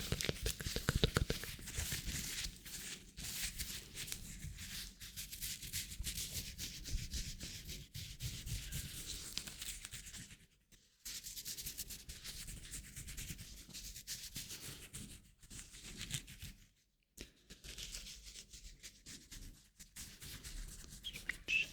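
Hands rubbing together close to the microphone: a continuous dry friction hiss with two short pauses, one about halfway through and one about two-thirds of the way in.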